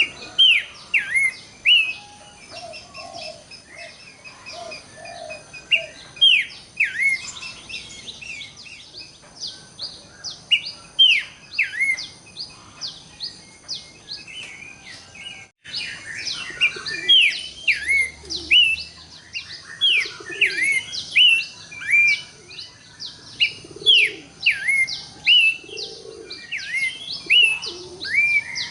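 Horsfield's babbler (pelanduk semak) singing: a busy run of short, sharp whistles that slide downward, one after another and overlapping, with some lower mellow notes underneath. The sound briefly drops out about halfway.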